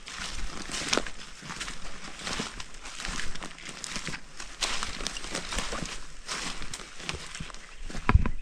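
Footsteps crunching through dry leaf litter at an irregular walking pace, with a louder thump near the end.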